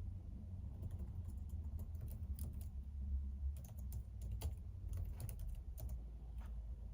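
Typing on a computer keyboard: irregular runs of keystrokes starting about a second in and stopping near the end, over a low steady hum.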